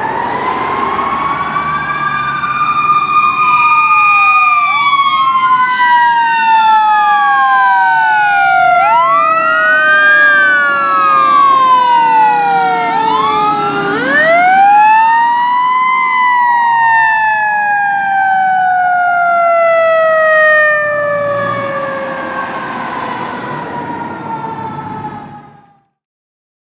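Fire engine's sirens wailing: one tone slowly rises and falls over several seconds while another sweeps up and down faster, over the low rumble of the truck. The sound fades and stops shortly before the end.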